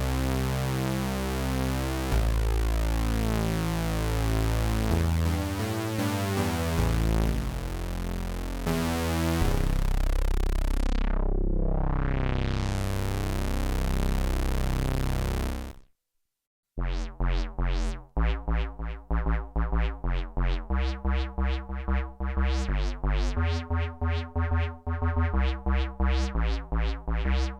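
Behringer JT-4000M synthesizer playing factory presets. First comes a sustained patch of held notes that change every second or two, with a filter sweep that closes and reopens midway; it stops about 16 seconds in. After a brief gap, a second preset plays a fast run of short, plucky notes over a bass line.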